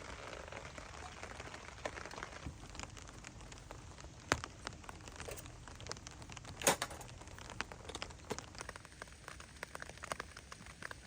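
Rain falling steadily, with many scattered sharp ticks and crackles over it and two louder snaps about four and six and a half seconds in.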